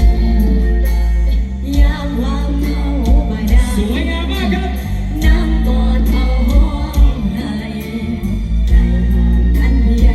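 A live band playing with a woman singing over strong bass and a regular drum beat.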